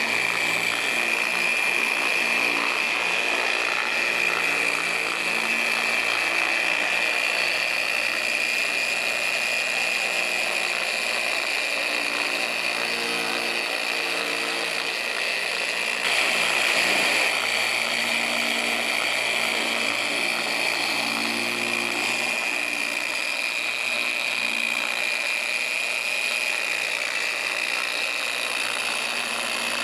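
Electric car buffer running steadily with a high whine, its pad working sealant into the paint; it gets briefly louder a little past halfway.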